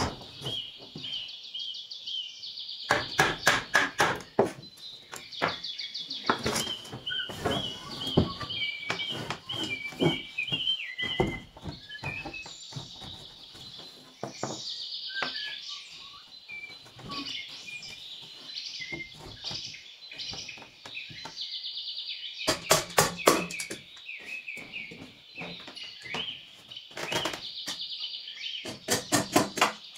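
Small birds chirping and trilling throughout, with bursts of sharp knocks, a tool striking in quick runs, the last run starting near the end.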